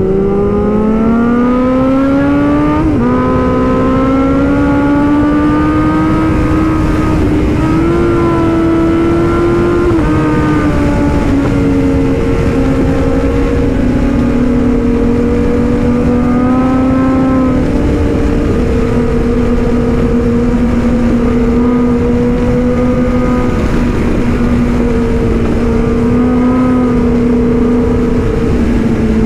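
Kawasaki Z900 inline-four engine pulling up through a gear, with its pitch rising until a shift about three seconds in, then cruising at a steady speed with small throttle changes. A steady rush of wind runs under it.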